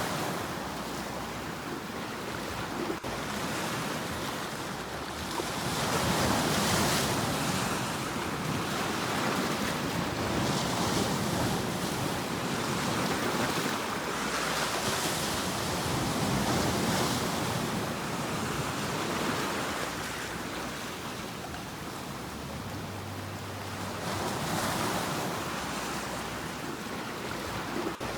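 Ocean waves breaking and washing up the shore, the surf swelling and easing in slow surges every few seconds.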